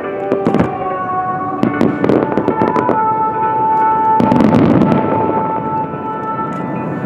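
Fireworks bursting and crackling in a string of sharp bangs, thickest in a dense volley about four seconds in, over music with long held tones.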